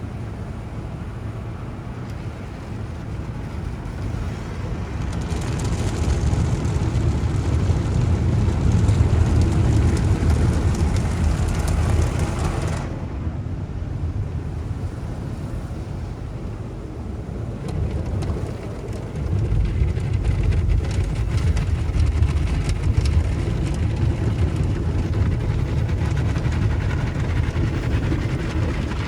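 Automatic car wash machinery working over a car: a steady rushing, rumbling noise that grows louder about five seconds in, drops off suddenly near the middle, and builds back up again for the last third.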